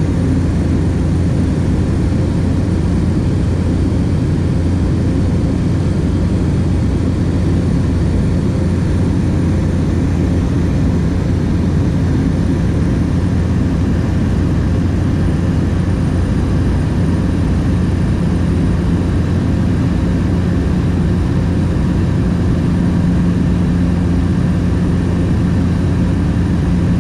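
Light aircraft's engine and propeller running steadily in cruise, heard inside the cabin as a constant low drone with a steady hum that grows slightly stronger in the second half.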